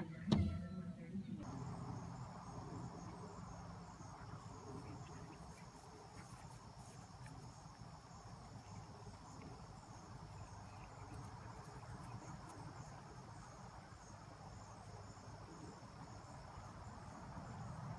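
A sharp click just after the start, then faint, steady, high-pitched insect chirring over a low background hum.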